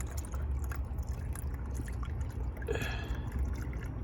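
Liquor being poured from a bottle into cups, a light trickle over a steady low rumble, with a short pitched sound about three seconds in.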